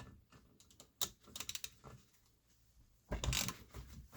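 Hand tools working metal on an Eaton M62 supercharger while its timing gear is being pulled off the rotor shaft: a run of sharp clicks about a second in, then a louder metallic clatter about three seconds in.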